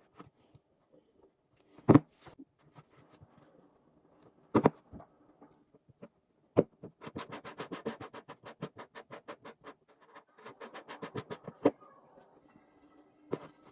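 Household handling sounds: a few sharp single knocks on a hard surface, and two runs of rapid, even tapping, about nine taps a second, in the middle.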